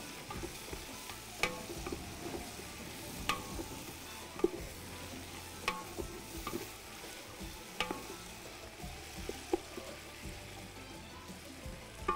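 Sliced onions frying with garlic, ginger and chilli in a large aluminium pot, sizzling steadily while a wooden spoon stirs them. The spoon knocks sharply against the pot every one to two seconds.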